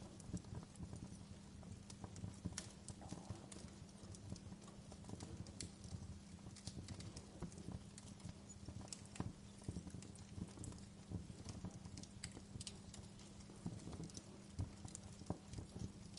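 Fireplace wood fire crackling: irregular sharp pops and snaps over a low, steady rumble.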